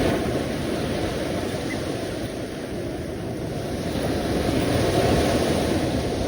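Sea waves washing in, a continuous rushing that swells near the start and again about five seconds in.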